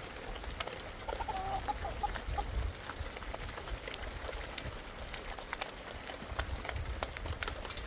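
A hen clucking in a short run of calls about a second in, over rain with scattered drips.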